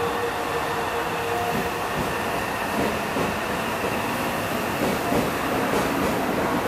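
Meitetsu 1700 series electric train pulling out of the station and running past, a steady rumble of motors and wheels, with a few wheel clacks over rail joints near the end.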